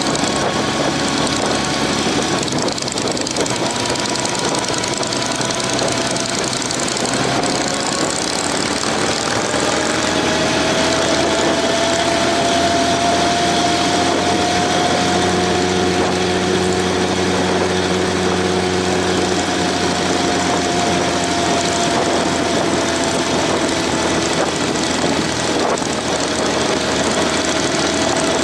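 Honda CB750's inline-four engine running under way, its tone slowly rising and falling with engine speed over a steady rush of noise.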